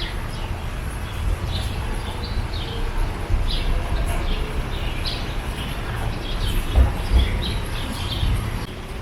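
Small birds chirping repeatedly in short, quick calls, over a steady low rumble with two louder low thumps a little before and after seven seconds in.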